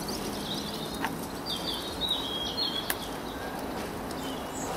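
Small birds chirping in short repeated notes over steady outdoor background noise, with two light clicks as the plastic splitter is handled.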